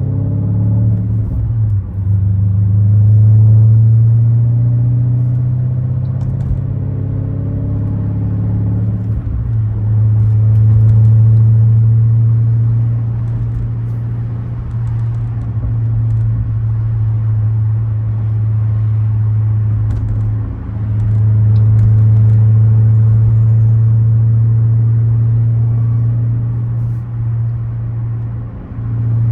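The 2013 BMW 550i's twin-turbo V8 runs through an H-pipe, catless downpipes and a muffler delete while driving. It makes a steady deep drone, with a few brief dips and changes in pitch.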